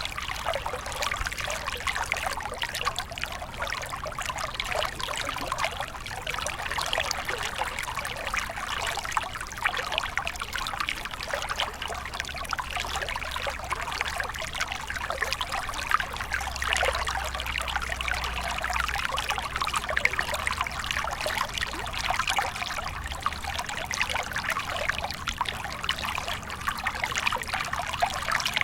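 Small stream flowing and trickling steadily, a dense, even babble of water running over rocks.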